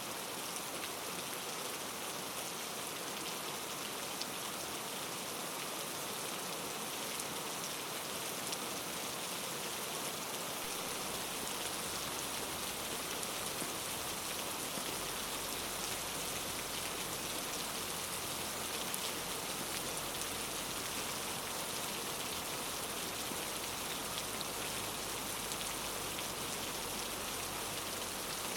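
Steady rainfall: a dense, even hiss of rain on surfaces with scattered individual drop ticks.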